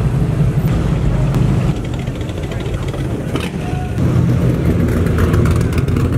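A car engine running with a low, steady rumble that eases off about two seconds in and picks up again about four seconds in.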